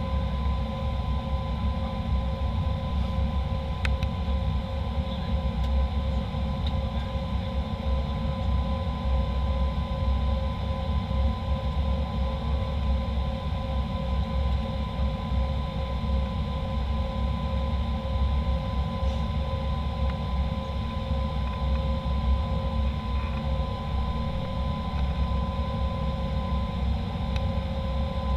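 Steady jet airliner cabin noise: a constant low rumble with two steady whining tones, one middling and one higher, and a faint tick or two.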